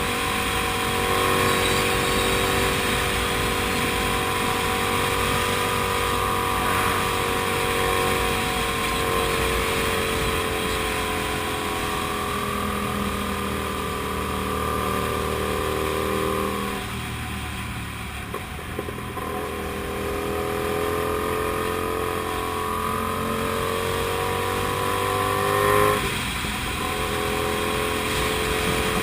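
Kasinski Comet GTR 250's V-twin engine running under way at a fairly steady pitch. It eases off for a few seconds past the middle, then picks back up, with a sudden change and a brief louder peak near the end.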